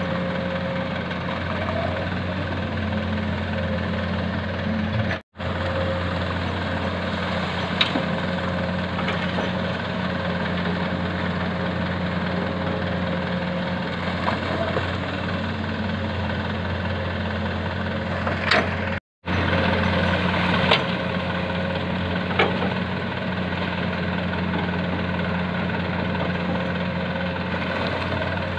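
Komatsu PC200-6 excavator's diesel engine running steadily while loading sand into a dump truck, with a few short sharp knocks. The sound cuts out twice for a split second.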